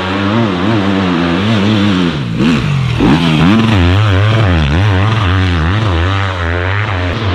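Enduro motorcycle engine being ridden hard off-road, the revs rising and falling again and again as the throttle is opened and closed.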